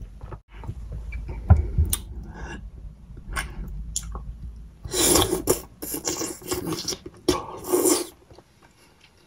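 Close-miked wet chewing and mouth sounds of eating soft ripe papaya, with small clicks at first and two loud squishy bursts about five and seven and a half seconds in.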